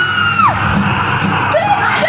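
Ghost train ride's spooky sound effects over a steady low rumble: a held, high wailing tone that drops away about half a second in, then a wavering cry near the end.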